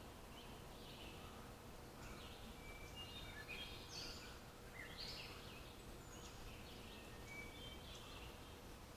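Birds chirping and trilling, several short overlapping calls, busiest about three to five seconds in. Faint low rumble and a faint steady hum underneath.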